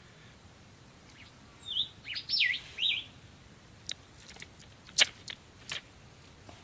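A bird calling with a short run of quick, swooping whistles, followed by a few sharp clicks or taps, the loudest about five seconds in.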